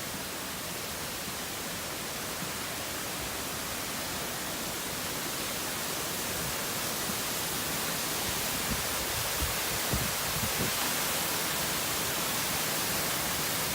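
Waterfall running over ice: a steady rush of falling water that grows slowly louder.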